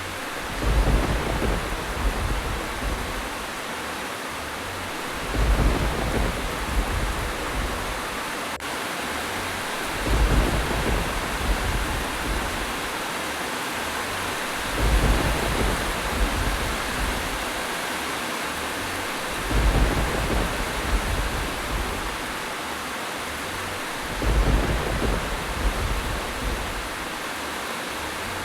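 Steady heavy rain hiss, with a low thunder rumble swelling up every four to five seconds, six times over, at an even spacing that suggests a looped track.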